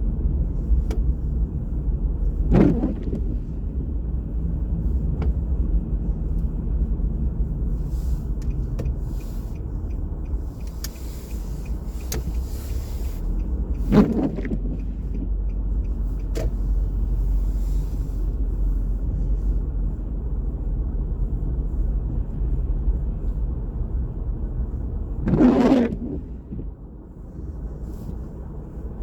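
Street traffic rumbling steadily, with three brief louder sounds about three seconds in, at fourteen seconds and near twenty-five seconds.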